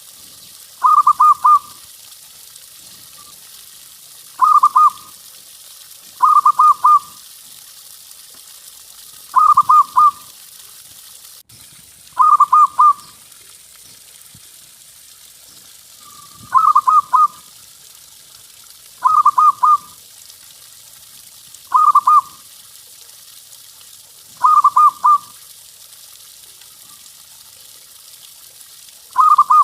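Zebra dove (perkutut) cooing. It repeats a short rolling phrase of several quick notes every two to three seconds, about ten times, over a steady hiss.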